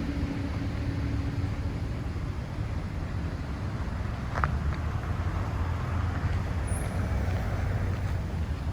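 City street traffic: a steady rumble of passing cars. A brief high squeak comes about halfway through.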